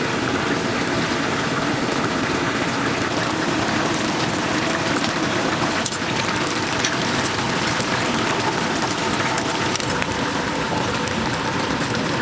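Chicken deep-frying in a vat of hot oil: a steady, even sizzle and bubbling with faint scattered crackles.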